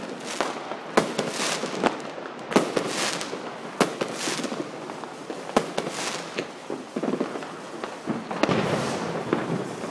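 Consumer fireworks and firecrackers going off all around: irregular sharp bangs, a dozen or so, over a constant crackle, with several brief hissing swells.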